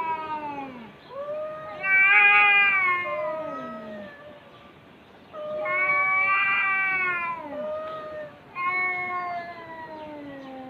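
Cat meowing in long, drawn-out calls of about two seconds each, every one sagging in pitch at the end. The tail of one call is followed by three more with short pauses between.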